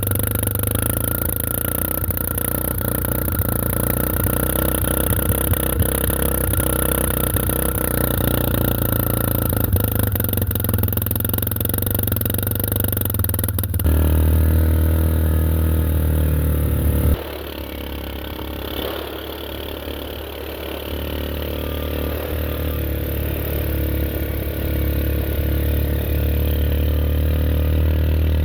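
Classic farm tractor engine running steadily. The sound changes abruptly about halfway through and again a few seconds later, as if cut between shots.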